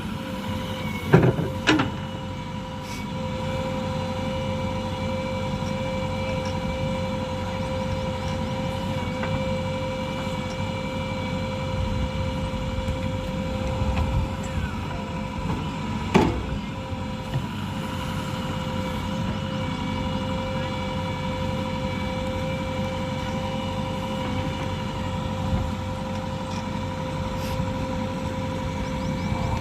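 JCB 3DX backhoe loader's diesel engine running steadily with a constant high whine over the rumble. A few sharp metallic clanks come about a second in and again about halfway.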